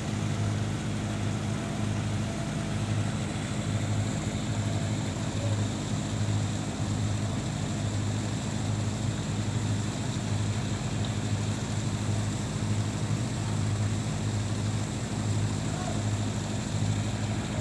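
Fishing boat's engine running steadily at low speed during manoeuvring, a low hum that pulses in an even beat.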